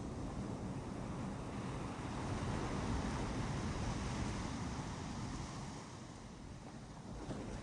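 Surf washing onto a beach, a wave swelling a couple of seconds in and easing off toward the end, with wind rumbling on the microphone.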